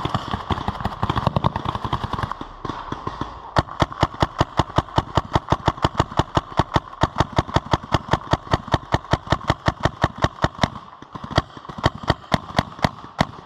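Paintball markers firing: a dense rapid burst of shots in the first couple of seconds, then a steady string of about five or six shots a second for some seven seconds, and a few scattered single shots near the end.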